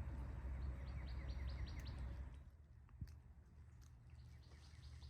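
A small songbird trilling: a quick run of short, high notes, about five a second, lasting about a second and a half, over a low rumble that fades out about halfway through. A single faint click comes near the middle.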